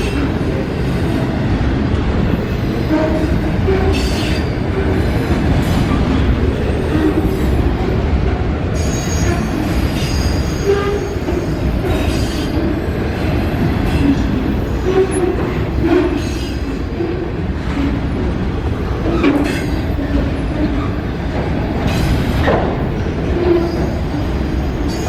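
A train rolling past: a steady rumble of steel wheels on rail, with irregular clanks every second or two. A faint high wheel squeal comes in for a few seconds about a third of the way in.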